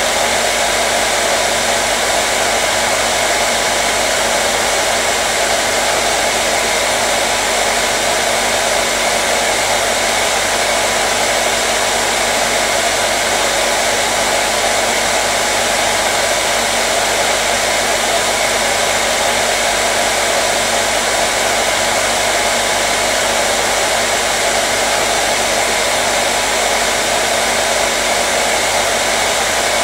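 Hair dryer running continuously, a steady airy rush with a constant motor hum, unchanging throughout.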